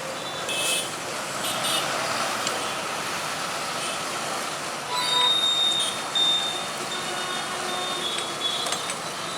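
Road traffic passing steadily, heavy vehicles among it, with a brief high-pitched tone about five seconds in.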